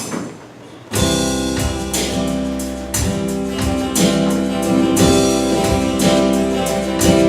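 A worship band starts the instrumental intro to a song about a second in, led by strummed guitar over a steady beat.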